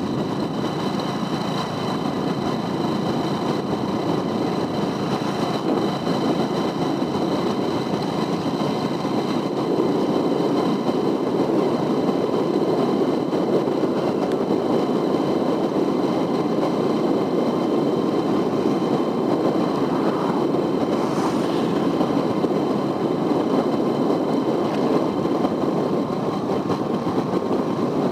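Steady vehicle noise of a motor vehicle running at constant speed: a continuous rumble with faint steady high whines, a little louder from about ten seconds in.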